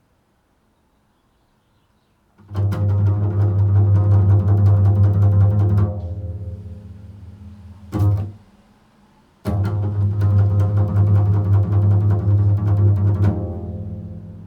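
A bowed low string instrument playing slow, improvised tones. After about two seconds of near silence, one long low note is held for about three and a half seconds and left to fade. A short stroke follows, then after a pause a second long low note that fades near the end.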